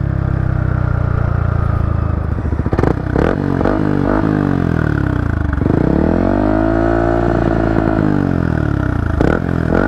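Yamaha MT-15's single-cylinder engine running through a Yoshimura Alpha slip-on muffler with its silencer insert fitted, sounding quiet. A little past halfway the revs climb, hold briefly, then drop back, and a few sharp clicks come around three seconds in and near the end.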